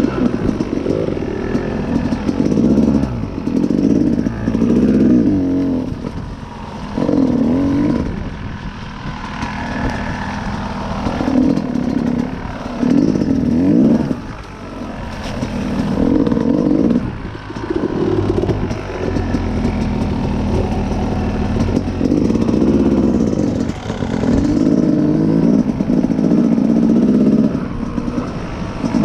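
Dirt bike engine under way, its pitch climbing and dropping over and over as the throttle opens and closes, with a few brief lulls.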